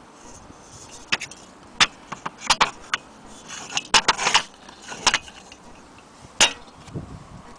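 Irregular light metallic clinks and taps, about a dozen, from the parts of a brass camping stove being handled.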